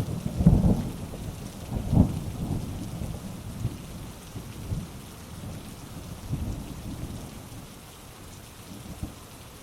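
Thunderstorm: rolling thunder with sharper cracks about half a second and two seconds in, rumbling on and fading away, over steady heavy rain.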